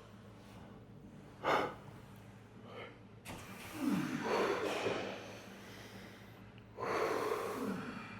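A man taking deep, heavy breaths before a weightlifting set to load up on oxygen: a short sharp breath about a second and a half in, then two long breaths, one around four seconds in and one near the end. A steady low hum runs underneath.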